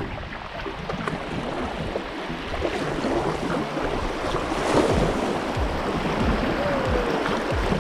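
River water rushing, with wind buffeting the camera microphone in low gusts.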